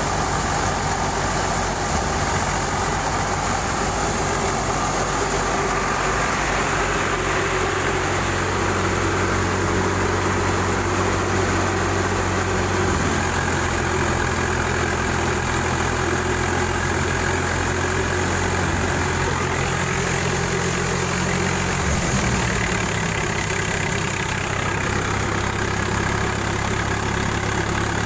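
Swaraj tractor's diesel engine running steadily, its note shifting slightly about halfway through and again near the three-quarter mark.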